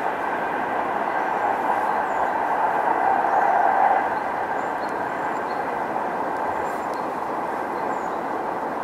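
Electric passenger train running along the track: a steady rail noise that swells slightly about three to four seconds in, then eases.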